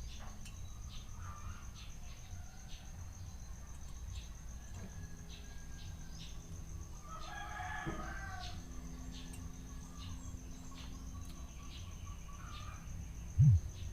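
A rooster crowing once, about halfway through, over a steady low rumble. A brief low thump comes near the end.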